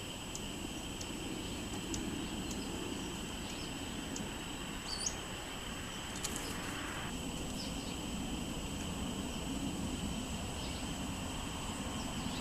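Wind on the microphone, with scattered short, high songbird chirps and one brief warbled note about five seconds in.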